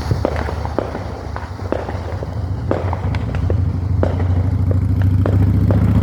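A vehicle engine running steadily and growing louder over the second half, with scattered firework pops and crackles throughout.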